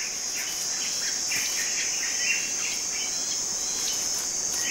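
Steady, high-pitched drone of insects such as crickets or cicadas, with faint short chirps repeating over it.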